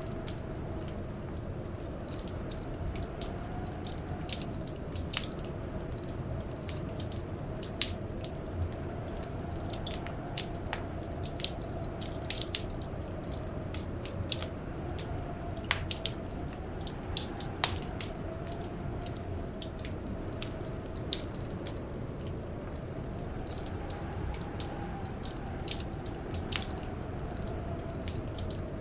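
Wood fire crackling: irregular sharp pops and snaps over a steady low rumble of the burning logs, with a faint wavering wind howl underneath.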